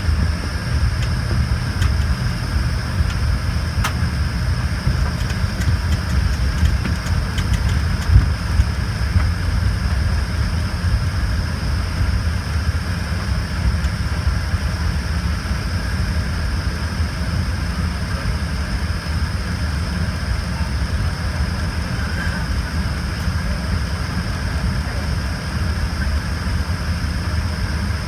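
Embraer ERJ-145's twin Rolls-Royce AE 3007 turbofan engines running at a steady low power, heard from inside the cabin: a low rumble with a steady high whine. There is one sharp knock about eight seconds in.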